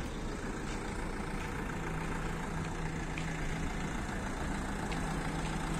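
A motor vehicle engine idling steadily over a low, even traffic rumble; a faint steady hum joins about two seconds in.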